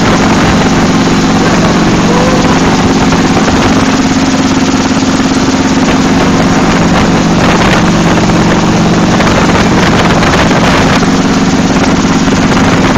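Helicopter engine and rotor noise: a loud, steady drone with a constant low hum.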